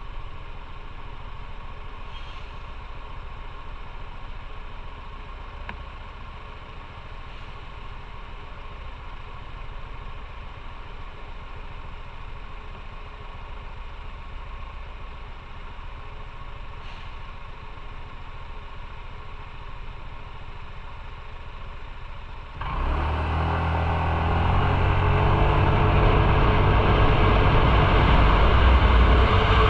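Motorcycle engine idling steadily, then about three-quarters of the way through it pulls away: the engine note rises as it accelerates and the rushing wind noise on the microphone builds.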